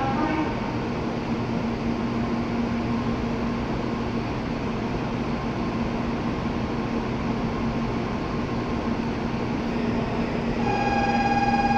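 Standing N700-series Shinkansen trains giving off a steady low hum and hiss at the platform. Near the end a steady electronic ringing tone starts up and keeps going.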